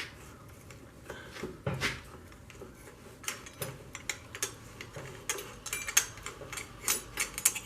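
Irregular clinks and taps of metal tools and motorcycle parts being handled, a few louder knocks about six to seven and a half seconds in.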